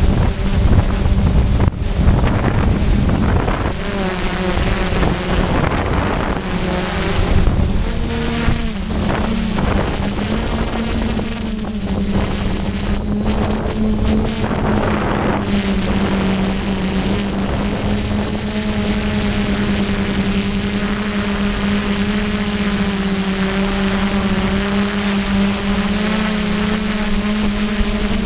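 DJI F550 hexacopter's brushless motors and propellers buzzing steadily in flight, the pitch wavering slightly as the motors adjust. Wind rumbles on the microphone, heaviest in the first several seconds.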